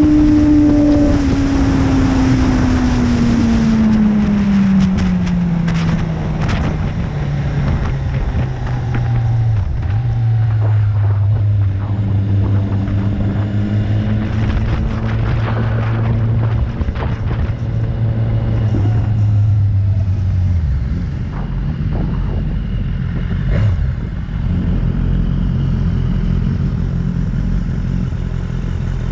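BMW S1000RR inline-four engine slowing down, its note falling steadily for several seconds, then running at a steady low pitch before dropping lower about twenty seconds in. Wind rush fades out in the first few seconds, and there are a few scattered clicks.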